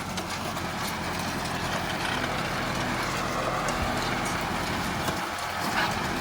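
Kubota tractor's diesel engine running steadily, with a continuous low hum.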